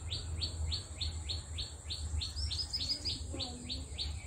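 A bird calling in a long, even series of short high notes that each slide downward, about three or four a second, over a low steady rumble.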